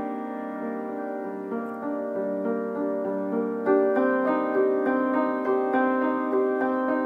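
Background music played on a piano, a run of held notes that grows louder about halfway through.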